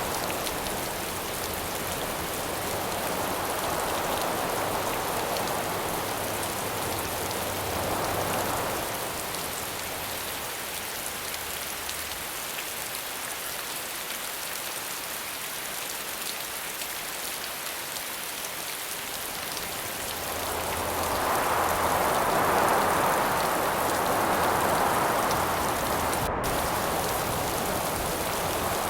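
Steady rain hiss with gusts of wind that swell and fade, once in the first third and again more strongly in the last third.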